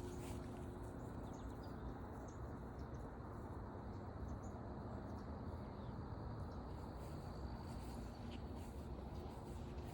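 Forest ambience: a steady, thin, high insect drone over a low rumble, with a few faint, short chirps scattered through.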